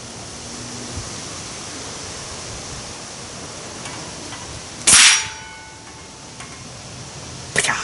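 .177 exploding pellet going off: one sharp crack about five seconds in, followed by a brief metallic ring, then a smaller snap near the end.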